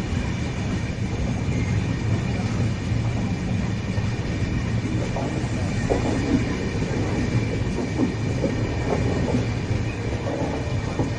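Express passenger train moving through the station: a steady, continuous low hum and rumble, with a few short squeaks about halfway through.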